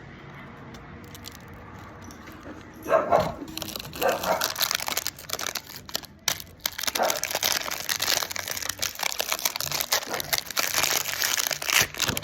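Crinkling and crackling, starting with a loud snap about three seconds in, then a dense run of crackles that stops abruptly near the end.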